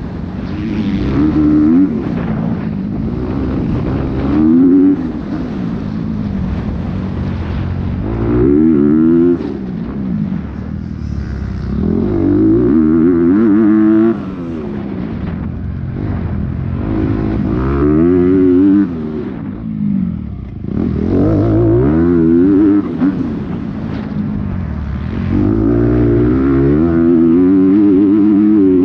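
Dirt bike engine ridden hard, revving up and backing off again and again, its pitch climbing and dropping every few seconds as the rider accelerates, shifts and slows through the turns of an enduro test.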